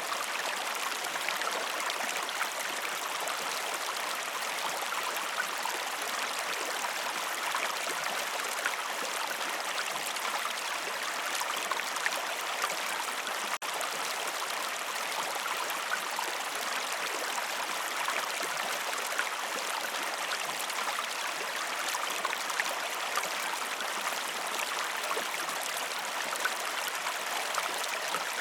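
Steady rushing of running water, like a stream, as a continuous ambience; it cuts out for an instant about halfway through.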